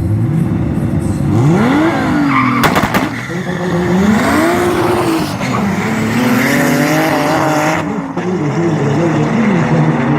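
Two cars accelerating flat out side by side, one of them a 500 hp turbocharged Toyota Supra. Their engines rev up through the gears, the pitch rising in several sweeps that drop back at each shift, with a few sharp cracks a little under three seconds in.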